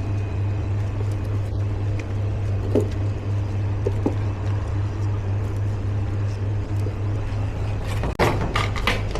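A steady low mechanical hum, with a few light knocks and clatters and a quick run of them near the end.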